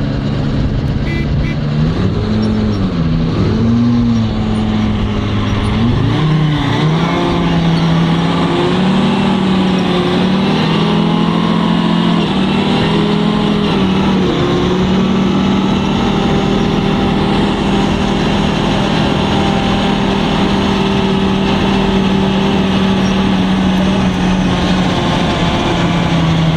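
FV432 armoured personnel carrier's engine, revved up and down several times in the first few seconds, then running at a steady speed.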